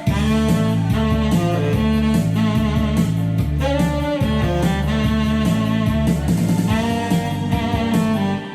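Saxophone playing a melody of long held notes over an accompaniment with guitar and a bass line moving in steps.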